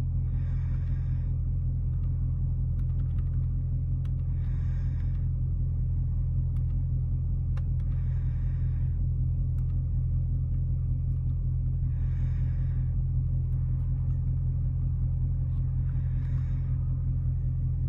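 Dodge Charger Scat Pack's 6.4-litre HEMI V8 cruising with a steady low rumble. A short higher-pitched sound of about a second comes back every four seconds, five times.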